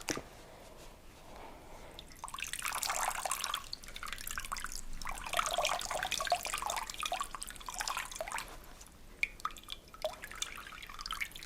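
Wet herbal compresses being wrung out: water splashing and dripping back into a basin in two spells of a few seconds each, then a few scattered drips near the end.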